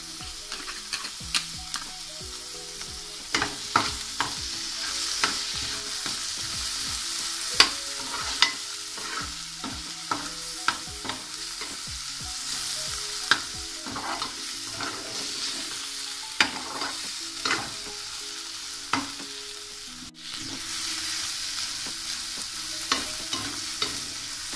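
Chopped onions and green chillies sizzling in hot oil in a metal pan, with a metal spatula clinking and scraping against the pan at irregular moments as they are stirred. The sound briefly drops out about twenty seconds in.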